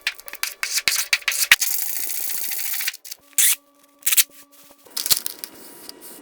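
Tools rubbing and scraping on rusted engine parts during cleaning. It opens with a quick run of clicks and scrapes, goes into a steady hiss for about a second and a half, then gives two short bursts of scraping and more rubbing near the end.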